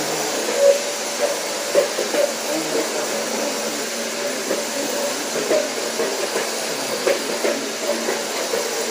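Vacuum cleaner running steadily with a hum and hiss, broken by irregular short knocks.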